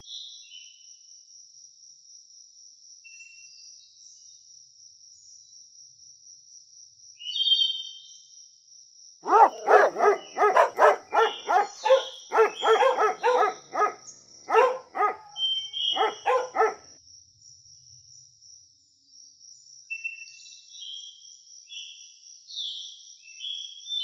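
A litter of Akita puppies yapping and whining in a rapid string of short, high yips lasting about eight seconds, starting near the middle. Faint high chirps come before and after, over a thin, steady high-pitched tone.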